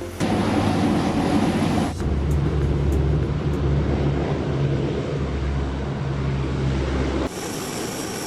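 C-130 Hercules aircraft noise on the flight line, heard over several cut-together shots. A broad rush gives way about two seconds in to a steady low engine drone, and near the end a high whine joins it.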